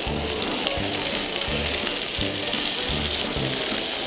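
Quail, tomatoes and mushrooms sizzling steadily in oil in a frying pan as they are stirred, over background music with a repeating bass beat.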